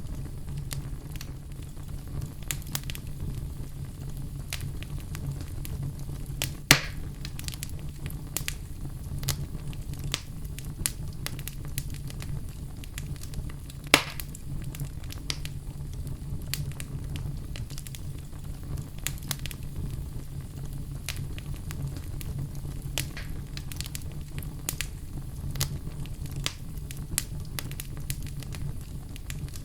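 Wood fire crackling in a fireplace: a steady low rumble of burning with frequent small crackles, and two loud sharp pops, one about a quarter of the way in and one about halfway.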